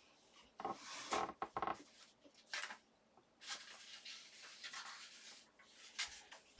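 Paper and small craft tools handled on a desk: rustling and rubbing, with a few light clicks and taps about a second in.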